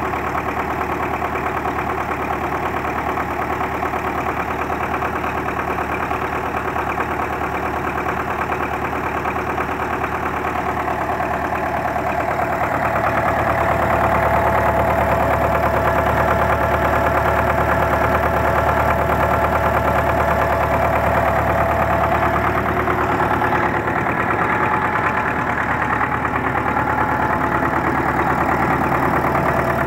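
D-243 four-cylinder diesel tractor engine idling steadily with a light knock, running on its freshly repaired injection pump while still cold. It grows somewhat louder about 13 seconds in.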